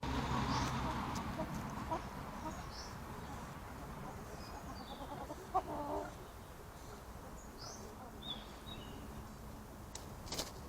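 Birds calling, with scattered short high chirps and one brief, louder, lower cluck-like call about five and a half seconds in, over a steady low rumble of outdoor background noise. A sharp click comes near the end.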